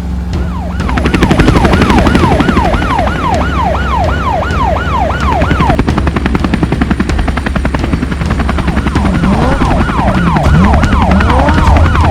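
Emergency-vehicle siren sound effect, a fast falling wail repeating about twice a second, over a steady low engine rumble. The siren stops for a few seconds midway, then comes back with a second siren overlapping it.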